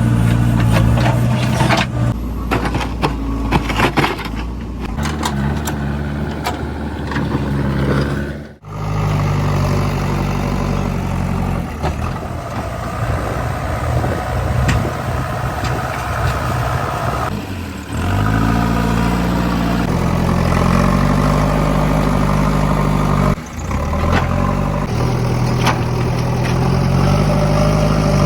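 JCB 3DX backhoe loader's diesel engine running under working load, its pitch stepping up and down as the revs change. It breaks off abruptly three times and resumes at a different pitch.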